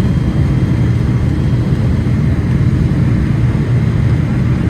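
Cabin noise inside a Boeing 777-300ER airliner in flight: a steady, loud low roar of engines and airflow, with a faint steady whine above it.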